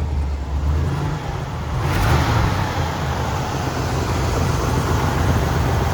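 1974 Pontiac Trans Am's SD-455 V8 engine running with a deep, steady exhaust note. About two seconds in, a broad rushing noise joins it and it gets a little louder.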